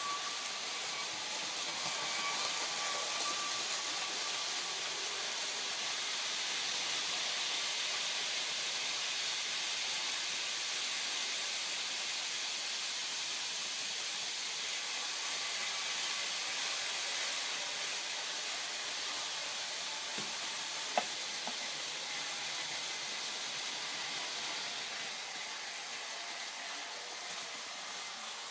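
Märklin model trains running along the track: a steady whirring hiss of motors and wheels, with a faint whine early on and a single click about 21 seconds in.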